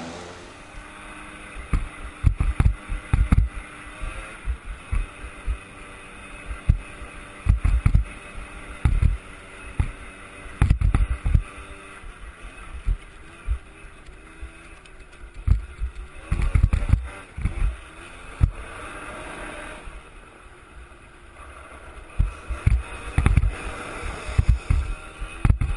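Suzuki LT80 ATV engine running at a distance, its pitch rising and falling, with a brief louder stretch near the middle, under repeated wind buffeting on the microphone.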